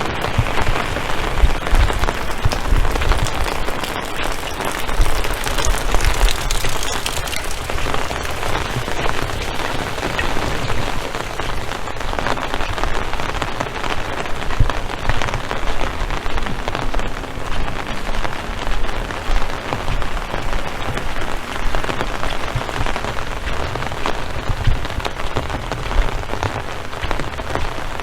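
Heavy rain falling steadily on surfaces, a dense even hiss, with frequent low thumps underneath.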